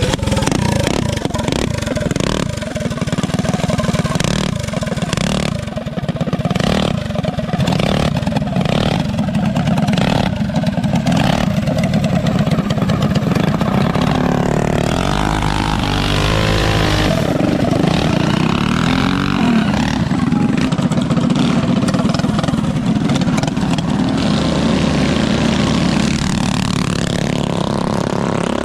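Mini bike engines running hard during a race, loud and continuous, with the engine pitch rising and falling as they rev.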